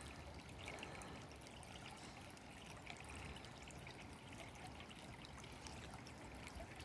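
Faint, steady trickle of a shallow creek's flowing water, with scattered small clicks.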